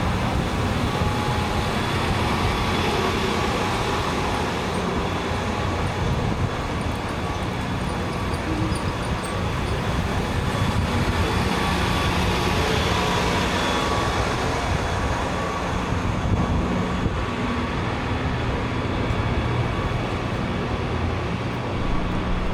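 Downtown street traffic: vehicle engines running and passing in a steady din, with a low engine hum that rises and falls as vehicles come and go.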